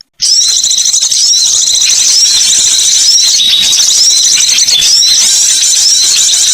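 Recorded bird lure call: small birds chattering continuously with high, rapid, hooked notes. A brief dead gap right at the start marks a splice into the next recording.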